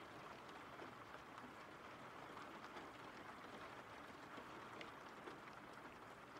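Faint steady rain: an even hiss with scattered small drop ticks.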